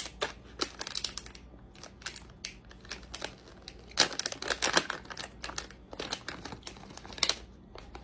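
Plastic snack wrapper of peach gummies crinkling and crackling in irregular bursts as it is opened and handled, busiest about halfway through.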